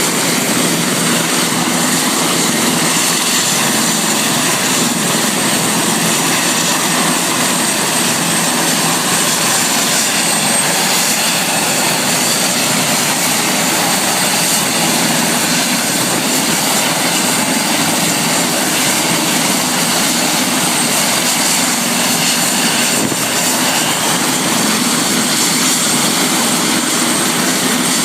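Helicopter running steadily: a loud, even rush with a thin, steady high-pitched whine on top.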